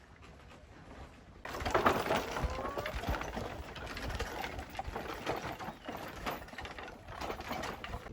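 Wooden ox-cart wheels and axle creaking and squealing as the cart rolls, with scattered knocks. It starts suddenly about a second and a half in, after a quiet stretch.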